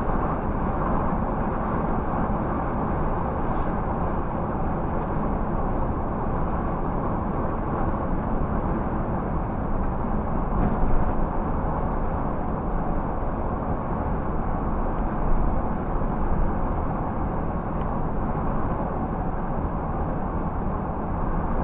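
Scania 360 coach engine pulling an empty bus uphill at about 98 km/h, a steady rumble mixed with tyre and road noise, with a couple of brief louder bumps partway through.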